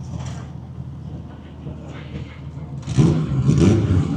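Street-car drag racer's engine idling, then revving hard for about a second near the end.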